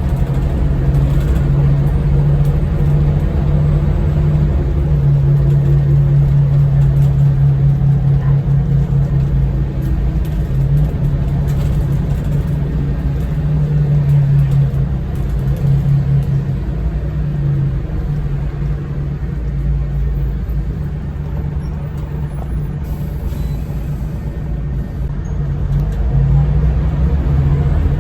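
Scania L94UB bus's diesel engine running as the bus drives, a low steady drone whose pitch shifts up and down with engine speed.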